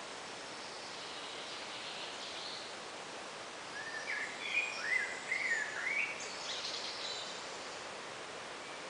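Woodland ambience: a steady hiss with a songbird singing a short burst of quick rising and falling chirps in the middle, plus fainter high, thin notes just before and after.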